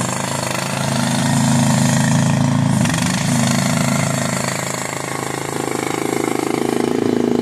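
A ZJG ZJ-380 mini skid steer's 15-horsepower gasoline engine running while the machine is driven and its controls are worked. The engine note changes pitch and loudness, rising about a second in and again at about five and a half seconds.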